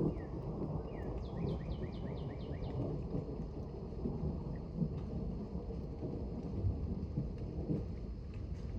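Low rolling rumble of thunder over steady rain. About a second in, a quick run of about eight high, falling chirps.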